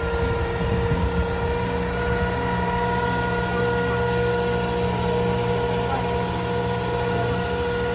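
Tour boat's motor running steadily: a constant low hum with a steady whine over it.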